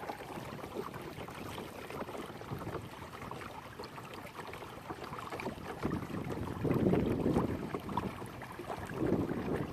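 Water rushing and splashing along the hull of a kayak under way, with two louder surges, about seven and nine seconds in.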